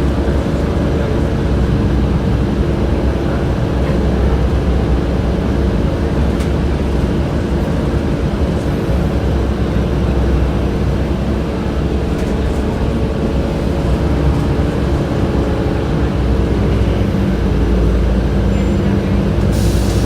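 Steady hum of a 2007 Orion VII transit bus's HVAC system heard from inside the bus under way, over the low drone of the bus's drivetrain and road rumble. A short hiss-like burst near the end.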